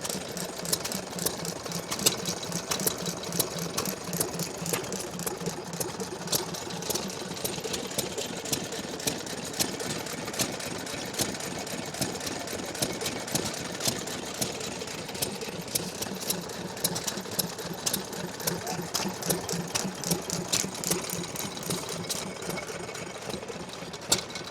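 Waterloo Type K 2 horsepower stationary engine running, a steady rapid clatter of mechanical knocks with uneven louder beats among them.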